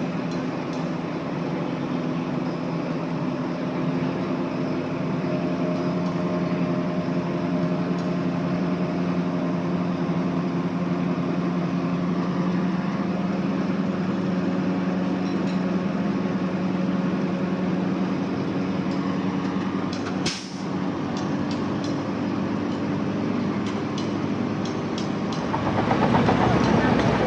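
Heavy diesel engine of earthmoving machinery running steadily. Sharp clanks come in after about two-thirds of the way through, and a louder rush of noise builds near the end.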